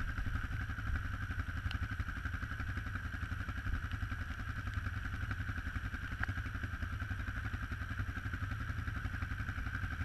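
ATV engine running steadily at an even pace, a low rumble with no rise or fall in pitch.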